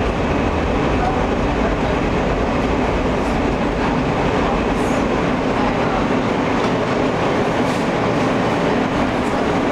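Steady running noise inside an Alstom R160A New York City subway car: a continuous rumble of wheels on rail and the car's machinery, with some clatter. The deepest rumble eases slightly about six seconds in.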